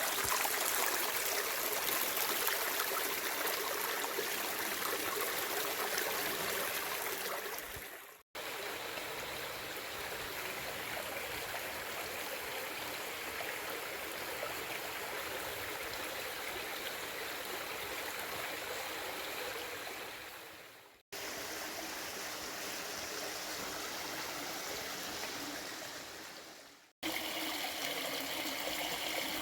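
Stream water running, a steady rushing flow. It fades out and cuts abruptly back in three times, about eight, twenty-one and twenty-seven seconds in, like separate clips joined together.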